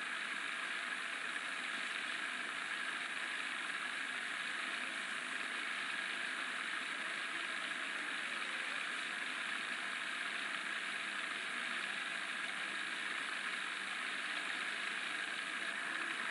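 Steady hiss with a faint, constant high-pitched tone running evenly underneath, unchanging throughout, like the background noise of an old film soundtrack.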